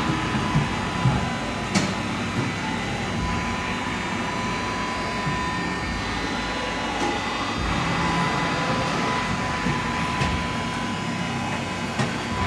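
Mikron VCE 750 vertical machining centre running: a steady mechanical hum with a high, even whine, broken by a few sharp clicks.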